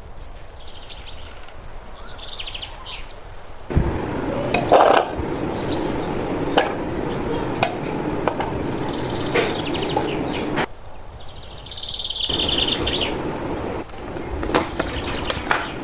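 Birds chirping in short trills over a steady hiss, with scattered clicks and knocks of pots and utensils. The background changes abruptly several times.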